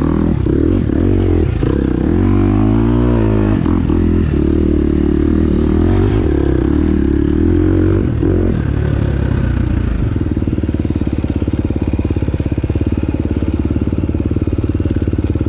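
Dirt bike engine running, with a brief rise and fall in pitch a few seconds in, then settling to a lower, pulsing idle about ten seconds in.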